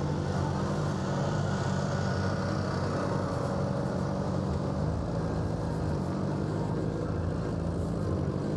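Suzuki GSX-R600 inline-four engine running steadily at constant revs, with no revving.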